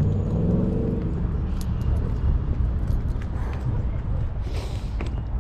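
Car engines running with a steady low rumble, with people talking in the background.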